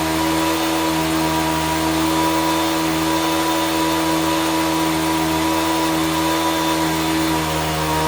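A small electric motor running steadily with a constant, even whine.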